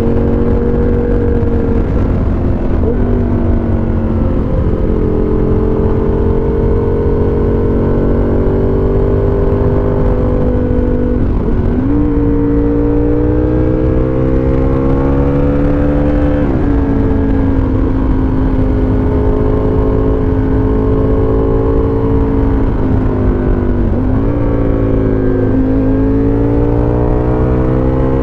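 Aprilia RSV Tuono Factory's V-twin engine through a dual GPR exhaust, heard while riding. The note holds steady for stretches, dips and recovers about four times as the rider shifts gears or rolls off the throttle, and is muffled by a microphone inside a jacket pocket.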